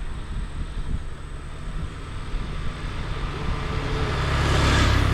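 Motorbike riding along a road: engine and road noise with wind rushing over the microphone, growing louder near the end.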